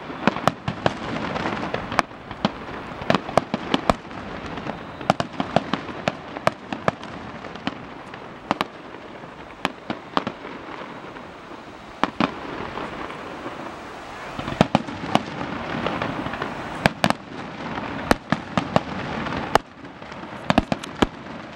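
Fireworks display: aerial shells bursting one after another, dozens of sharp bangs at irregular intervals over a continuous background noise, with a slightly quieter stretch in the middle.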